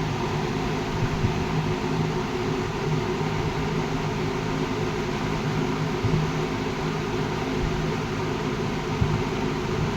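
Dominion model 2074 20-inch steel-bladed box fan with a Fasco motor running steadily on high speed: a rush of moving air over a low, steady motor hum.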